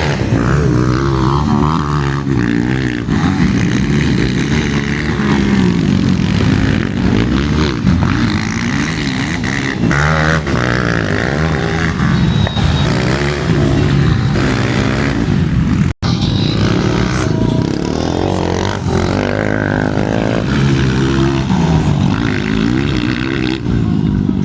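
Motocross motorcycle engines revving and running, their pitch rising and falling over and over, with a brief break about sixteen seconds in.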